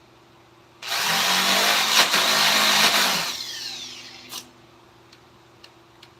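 A handheld power tool runs for about two seconds, then spins down, its whine falling as it coasts to a stop. A single click follows.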